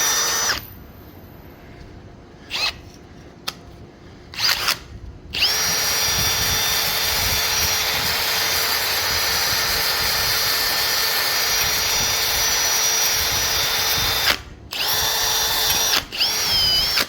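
Power drill run in bursts, zipping heavy rust off a scooter wheel: a steady high whine that stops just after the start, a few short blips, a long steady run of about nine seconds, then two shorter runs, the pitch sagging briefly near the end as it bites.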